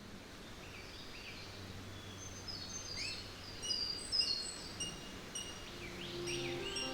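Several birds chirping and whistling, with short calls overlapping and the chorus slowly growing louder as it fades in. Steady music tones come in near the end.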